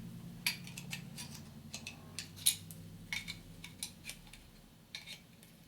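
Metal clicks and clinks from a hone and its stones being handled: about a dozen sharp ticks at uneven intervals, over a low hum that fades away in the first few seconds.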